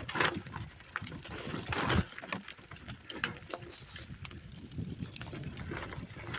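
Bicycle being ridden over a rough dirt trail: irregular clicking and rattling of the bike's parts over a low rumble of the tyres, heard muffled from a phone in the rider's pocket, with cloth rubbing against the microphone.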